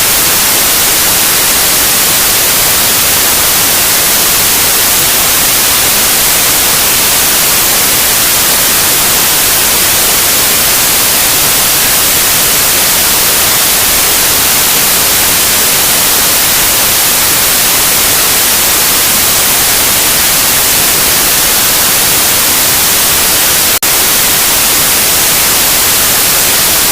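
Loud, steady white noise: an even hiss across the whole range, with a momentary dip in level about three seconds before the end.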